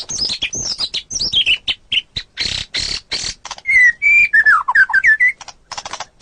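White-rumped shama (murai batu) singing a varied song. Clear whistles slide down in pitch, a run of harsh rasping notes comes in the middle, and quick clicking notes follow near the end.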